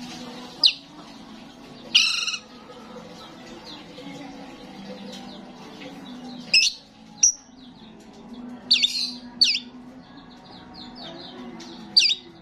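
Starling calling: loud, sharp, shrill calls at irregular intervals, some harsh and some falling in pitch, with softer chirps between.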